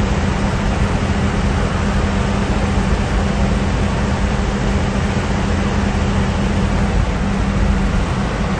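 An engine running steadily: a loud, unbroken rumble and hiss with a constant low hum.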